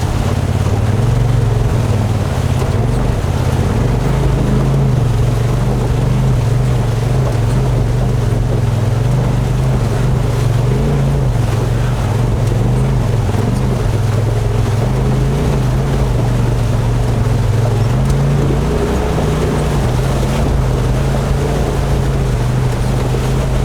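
Polaris RZR XP Turbo S side-by-side's turbocharged twin-cylinder engine running under way, its note rising and falling with the throttle, over a steady rush of wind and water.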